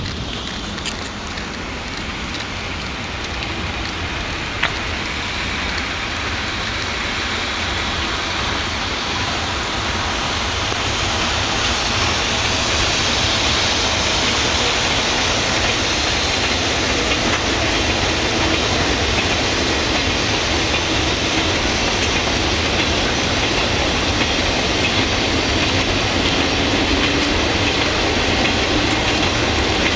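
Freight train rolling along the tracks, its noise building over the first dozen seconds and then holding steady.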